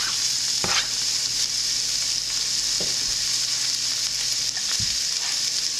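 Chopped onion and butter sizzling in a hot frying pan with pork-chop drippings: a steady frying hiss. A light knock sounds just under a second in.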